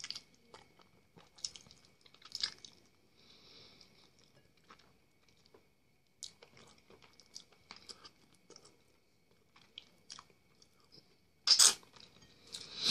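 Close-up mouth sounds of a man eating: biting and chewing a piece of chicken held in his fingers, with many small crunching clicks and wet smacks, and two louder mouth sounds near the end.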